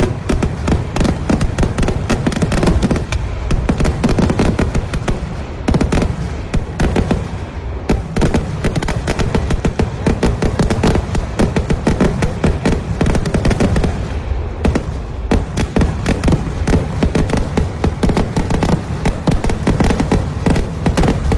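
Kerala temple-festival fireworks going off in a dense, unbroken barrage of explosions, many bangs a second, easing briefly a few times before building again.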